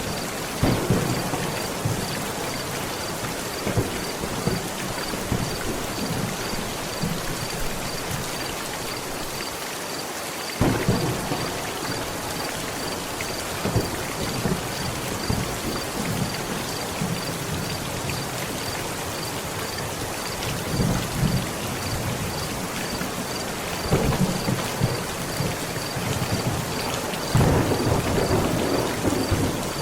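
Heavy rain pounding steadily on a tent, with thunder rumbling on and off, a sudden clap about a third of the way in, and a louder rolling rumble building near the end.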